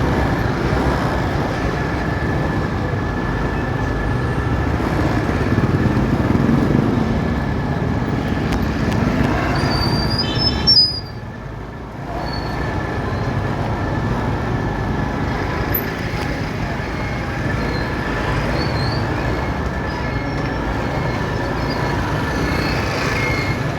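Steady road noise of a motorcycle ride in city traffic: engine and wind noise running on. About eleven seconds in there is a brief high squeal, then the sound drops for about a second before it picks up again.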